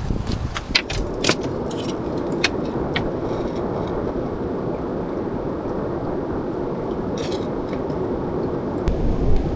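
Steady rush of heavy rain and rough sea water around a bamboo raft, with a few sharp knocks in the first three seconds and a low rumble coming in near the end.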